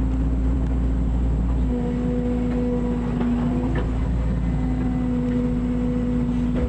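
Mini excavator's diesel engine running steadily at a constant pitch, with a few faint clanks.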